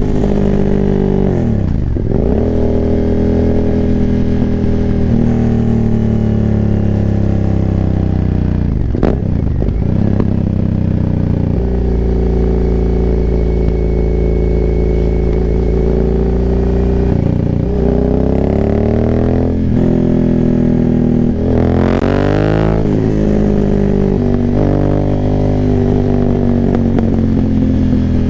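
2019 Aprilia Dorsoduro 900's V-twin engine, decatted and breathing through a full Arrow exhaust with no dB killers, revving up and down while being ridden. The pitch drops sharply several times, about two seconds in, around ten seconds and near twenty seconds, and holds steadier for a stretch in the middle.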